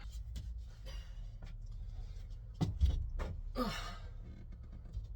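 A man breathing out in a sigh about three and a half seconds in, with a few faint knocks over a low steady hum.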